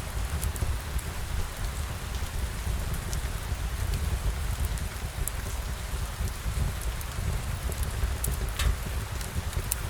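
Steady rain falling, a constant hiss over a low rumble, with scattered sharp drop ticks.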